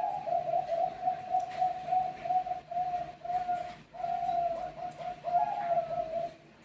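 Bangkok-strain zebra dove (perkutut) singing: a long unbroken run of short, rapid cooing notes, all at about the same pitch, stopping about six seconds in.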